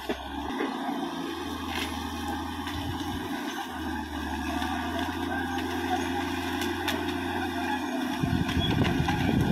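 CAT D6R XL crawler bulldozer's diesel engine running steadily. It grows louder, with more low rumble, about eight seconds in.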